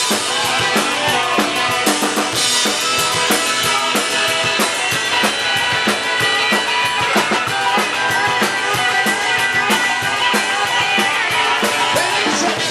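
Live rock and roll band playing an instrumental stretch, with the drum kit driving a steady fast beat of kick and snare hits.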